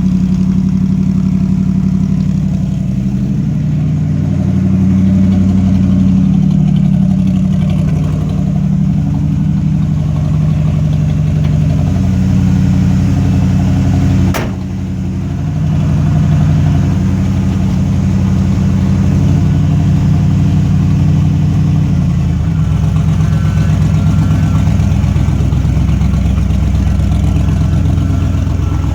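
Ford 390 cubic-inch FE V8 running through 2 1/4-inch dual exhaust with glass-pack mufflers and megaphone tips, a steady deep exhaust note. About halfway there is a sharp click and a brief drop in level, and about three-quarters through the note shifts lower.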